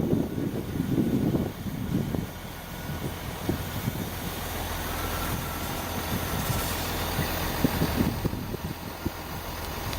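A train running through the station, a steady rushing noise through the middle, with gusts of wind buffeting the microphone at the start and end.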